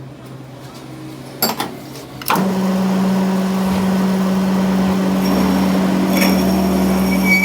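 A workshop machine's electric motor switches on after a couple of sharp clicks, about two seconds in, and then runs with a steady hum.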